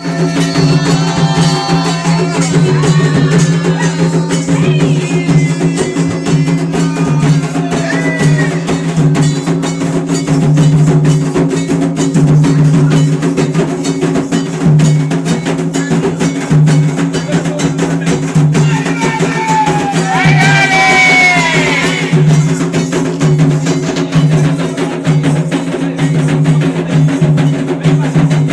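Candomblé ritual drumming: hand drums played in a fast, steady rhythm with sharp clacking percussion, and voices singing short phrases over it, most clearly near the start and about twenty seconds in.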